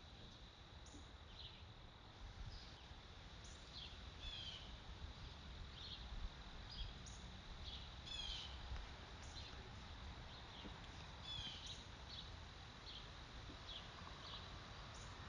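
Faint outdoor ambience of small birds: short high chirps about once a second, with three quick trilled calls, over a low rumble and a thin steady high tone.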